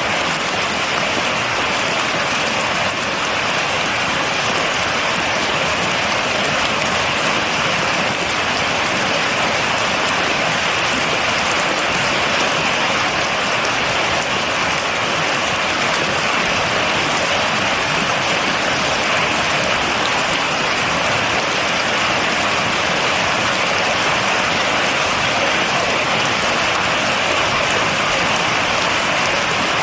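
Steady rain falling and pattering on surfaces, with no thunder.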